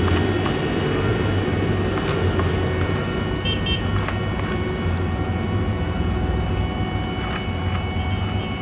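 Heavy diesel paving machinery running steadily: a low, slightly pulsing engine rumble with a constant high whine over it.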